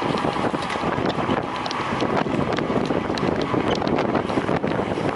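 Wind buffeting the microphone steadily, with many small clicks and ticks through it.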